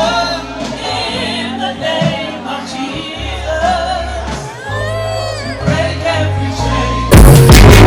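Gospel singing over held bass notes. Near the end, much louder music with a strong beat cuts in suddenly.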